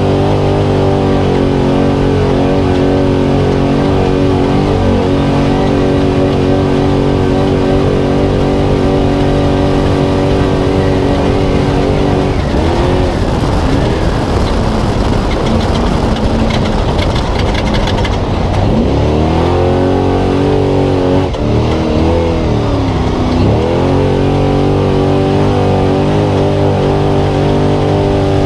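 Spec trophy truck's V8 engine heard from inside the cab, running flat out at a steady high pitch. About halfway through, the revs drop and climb back several times as the throttle is lifted and reapplied, with a brief rattle, before the engine settles back to a steady high pitch.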